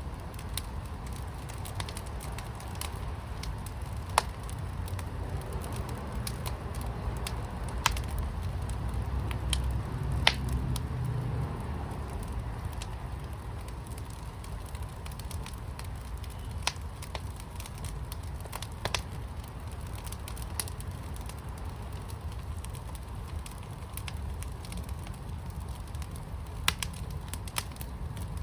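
Fire pit burning: a steady low rumble of flames with scattered sharp crackles and pops, the rumble swelling a little about a third of the way in.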